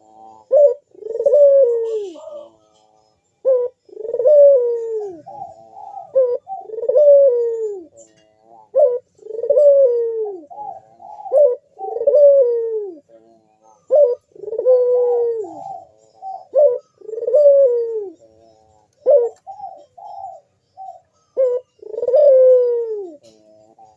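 Barbary dove (burung puter) cooing over and over in breeding condition, in lively, frequent song. Drawn-out coos fall in pitch, about one every two to three seconds, with short clipped notes between them.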